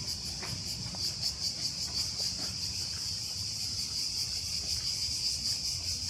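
Cicadas calling in chorus: a continuous high, buzzing drone with a fast, even pulse.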